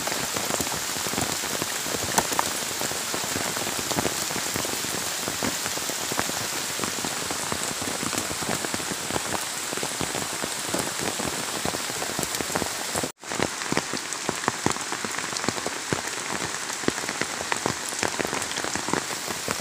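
Steady heavy rain falling on dense foliage and wet ground, with many close, crisp drips through it. The sound drops out for an instant about two-thirds of the way through.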